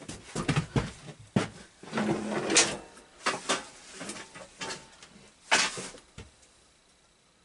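Irregular clicks, knocks and clatter of tools and metal parts being handled, with a louder scraping stretch about two seconds in.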